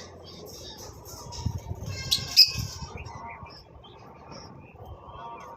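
Conure parrot calling: short high chirps and one loud, harsh squawk about two seconds in.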